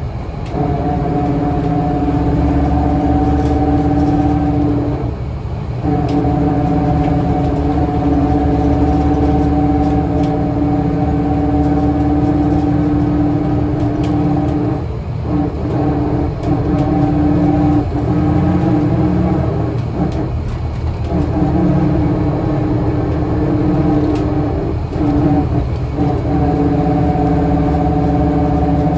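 Scania L94UA bus engine running, a steady drone with several pitched tones. It dips briefly about five times, near 5, 15, 16, 20 and 25 seconds in.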